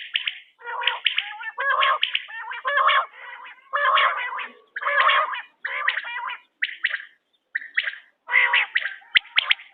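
Quail (bater) calling: about a dozen short calls in quick succession with brief gaps between them, and a couple of sharp clicks near the end.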